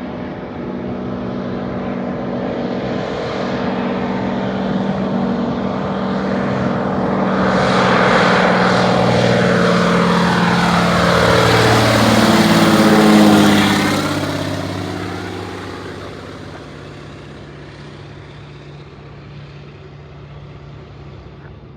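Propeller floatplane engine passing close by. It grows steadily louder to a peak about 13 seconds in, then its pitch drops and it fades as it goes past.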